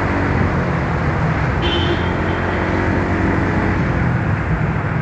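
Yamaha Mio Soul scooter engine running steadily under way, with wind and road noise, and a brief high-pitched tone about a second and a half in.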